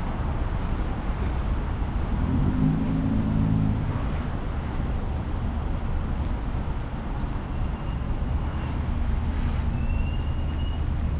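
Steady city street traffic rumble, with a low vehicle engine hum standing out for about a second and a half a couple of seconds in.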